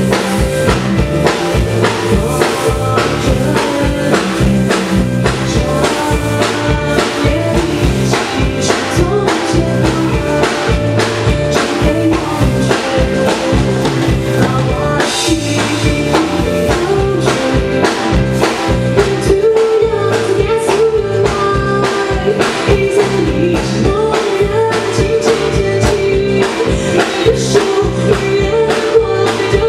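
Live rock band playing a song, with a busy drum kit beat under sustained instrumental tones.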